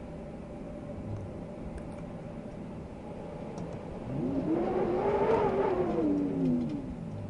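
Steady wind noise, with a motor vehicle passing by about four seconds in: its engine tone rises and then falls over about three seconds.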